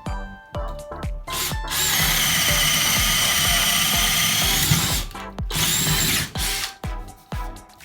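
Cordless 18V brushless drill driver (Abeden HY-2035) running at a steady speed for about three seconds, starting a little under two seconds in, over background music with plucked notes.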